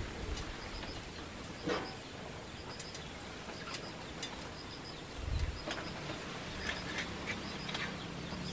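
Small birds chirping in quick little groups of short high notes, repeated throughout. Occasional light clicks and taps of hands working at a steel sink, and a low thump about five seconds in.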